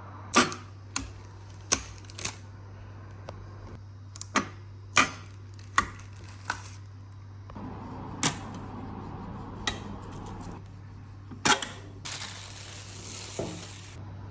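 Klarstein coffee machine being handled: a dozen or so sharp clicks and clatters of its parts over a steady low hum, with a hiss lasting about two seconds near the end.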